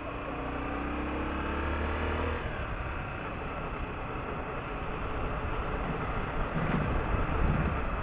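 Motorcycle engine accelerating, its note rising in pitch for about two and a half seconds, then falling away as the throttle eases, with the bike running on under rough road and riding noise.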